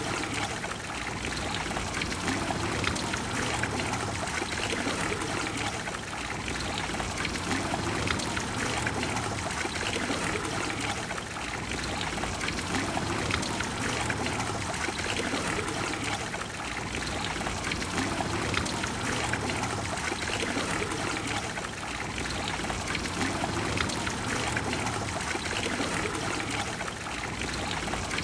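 Trevi Fountain's water falling and splashing into its basin, a steady continuous rush of water.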